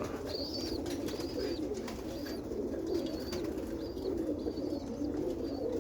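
Roller pigeons cooing in a steady murmur, with a short high chirp repeating about every half second to second.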